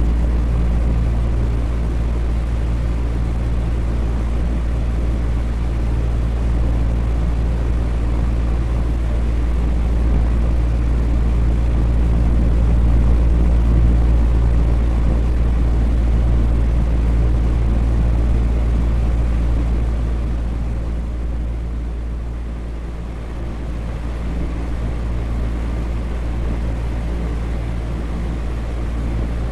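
Electric fan running steadily: a deep, even hum with air noise over it. It dips slightly in loudness for a few seconds about three quarters of the way through.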